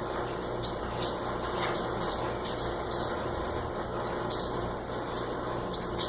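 Parrotlet giving short, high chirps, about five of them spaced a second or more apart, over a steady low hum.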